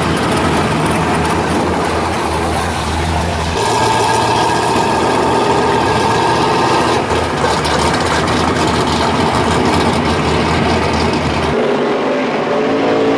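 Drag cars' engines idling as they roll past at low speed: first a first-generation Chevrolet Camaro, then a Fox-body Ford Mustang. The heavy low rumble changes about a third of the way in as the second car comes by, and drops away near the end.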